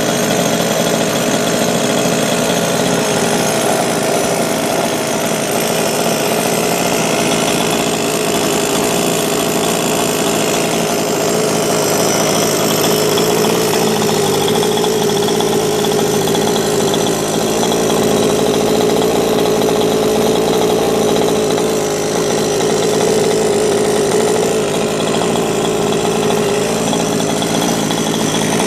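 Rovan 45cc two-stroke engine in an RC car, running steadily at idle through a Victory Bigbore tuned pipe on a custom header, during its first break-in run.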